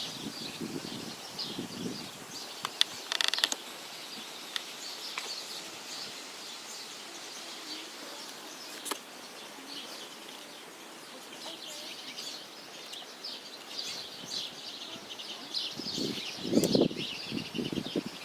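Small birds chirping and twittering steadily, with a few sharp clicks about three seconds in and again near nine seconds, and low muffled knocks near the end.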